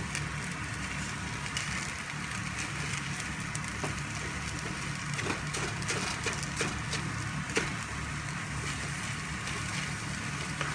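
Stir-fried cabbage, egg and glass noodles sizzling in a frying pan while being turned with a slotted spatula, with scattered scrapes and taps of the spatula against the pan. A steady low hum runs underneath.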